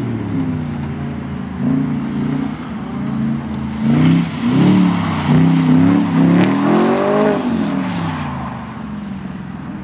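A car engine on an autocross run, revving up and backing off again and again as the car accelerates between the cones. It fades away near the end.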